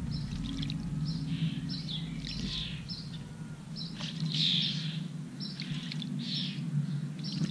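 European robin bathing in a shallow dish of water, splashing in short flurries, with high bird chirps repeating throughout. A low steady hum fades out about three seconds in.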